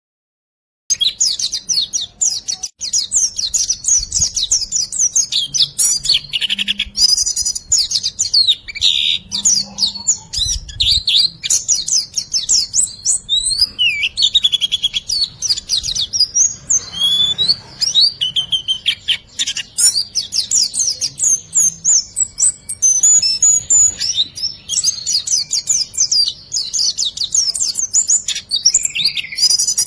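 Small songbird calling in a rapid, continuous stream of high chirps and short trills that start about a second in. It is a birdsong tutor recording ('masteran') played to teach cage birds to sing.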